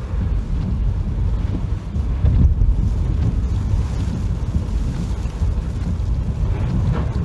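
Typhoon wind buffeting the microphone: a heavy, uneven low rumble that surges in gusts, strongest about two and a half seconds in.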